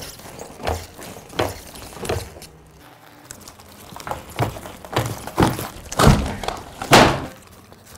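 Repeated thuds of a lamp-costume's round base landing on a wooden stage floor as the wearer hops, about eight hops, with the loudest near the end.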